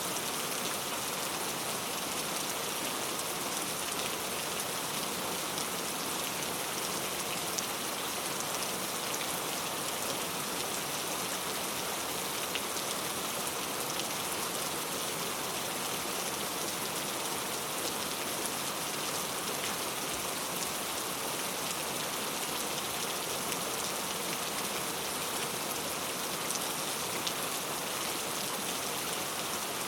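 Heavy rain falling steadily: a dense, even hiss of rain with scattered sharper drop ticks.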